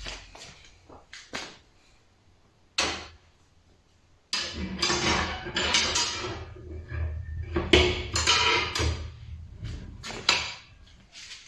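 Knocks and clattering of objects being handled: a few light clicks, a single sharp knock, then several seconds of dense rustling clatter ending in another sharp knock.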